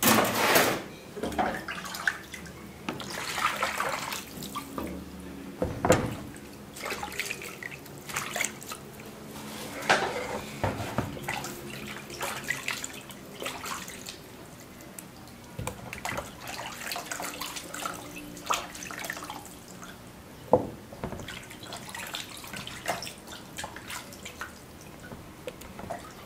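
Raw chicken wings being rinsed clean in water: irregular splashing and dripping as they are handled, with several sharp knocks along the way.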